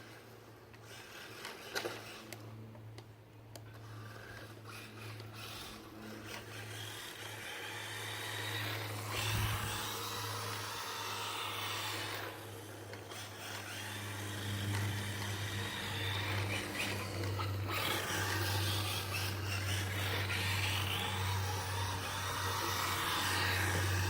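Losi Mini Rally 1/14-scale RC car's small electric motor revving as the car drifts on wet ground, with tyre and water hiss surging and fading and growing louder in the second half, over a steady low hum. A sharp click comes about two seconds in.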